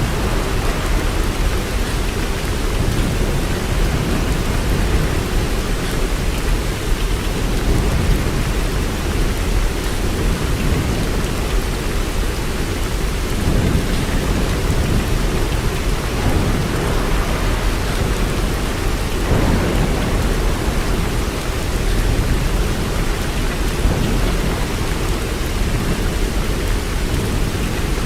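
Heavy rain falling steadily: a dense, even hiss of drops with a strong low rumble underneath.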